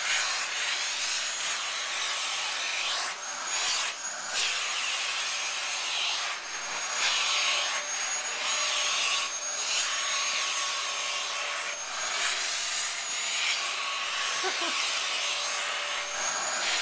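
Vacuum cleaner running while being used to vacuum a cat's fur: a steady rushing hiss with a thin high whine, the hiss briefly dropping and swelling again every few seconds.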